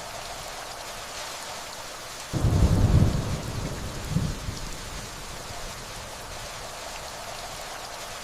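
Steady rainfall with a rumble of thunder that starts suddenly about two seconds in, swells again a second or so later and fades away within about three seconds.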